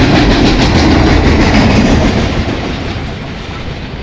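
Freight train of loaded flatcars rolling past close by: steel wheels rumbling and clicking over the track. The sound fades from about halfway through as the last car passes and the train moves away.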